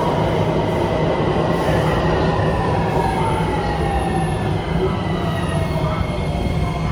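Miami-Dade Metrorail electric train running alongside the platform as it slows: a steady rumble of wheels on rail with a whine that falls slowly in pitch.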